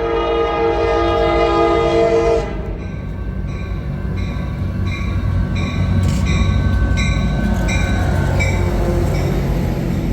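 A passenger train's horn sounds one long blast of about two and a half seconds, over the train's low rumble. After it comes a ringing ding repeating about twice a second, fading out near the end: a railroad crossing bell passing by.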